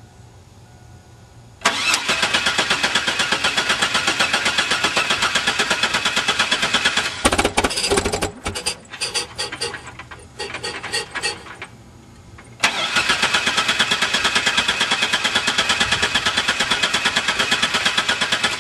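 A van's engine being cranked by its starter in two long attempts, each a fast, even chugging lasting about five to six seconds, with a few uneven bursts between them. The engine turns over but does not start.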